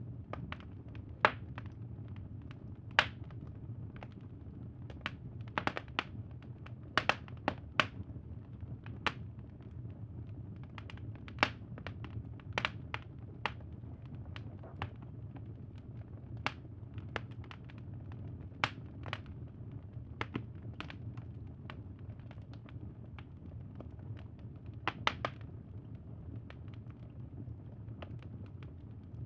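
Campfire crackling: irregular sharp pops and snaps of varying loudness over a steady low rumble of burning wood.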